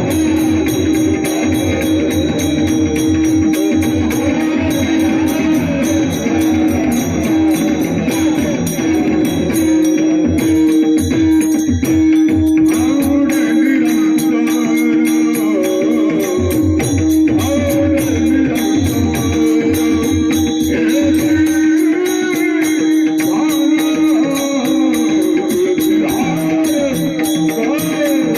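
Varkari kirtan music: a man sings long, ornamented devotional phrases over a steady drone, with pakhawaj drum strokes and jingling small hand cymbals. The low drum strokes drop out about three-quarters of the way through.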